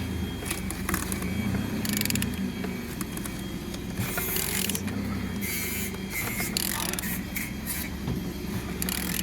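Used VW 1.9 TDI (BXE) engine being turned over by hand with a ratchet: irregular ratchet clicks and rasps as the crankshaft is worked round. It turns freely with compression on every cylinder.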